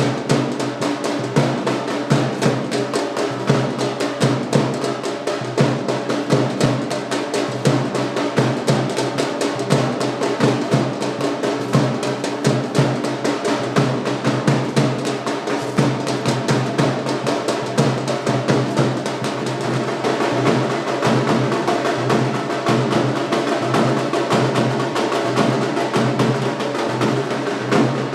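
Music with fast, dense drumming throughout over steady held notes.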